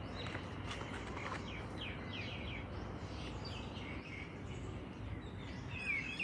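Small birds chirping in short, repeated calls over steady outdoor background noise, the chirps coming in clusters about two seconds in and again near the end.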